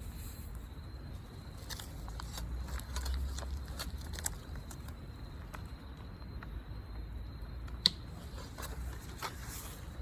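A wood fire crackling, with irregular small snaps and one sharp pop about 8 seconds in, over a low rumble.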